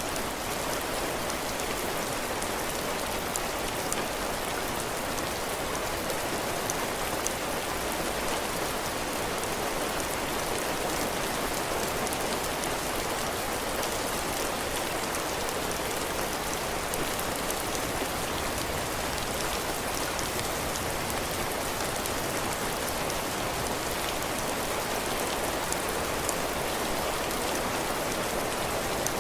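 Steady heavy rain falling on a cabin porch, drops pattering on the roof and the ground, with small scattered drop ticks over an even hiss.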